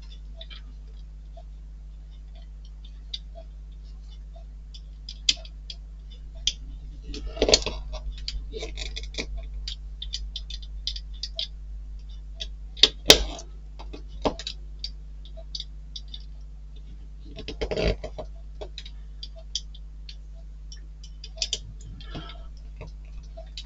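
Small metal and plastic model-kit parts being handled and fitted: irregular light clicks and taps, with a few louder clattering moments about a third, halfway and three-quarters of the way through. A steady low electrical hum runs underneath.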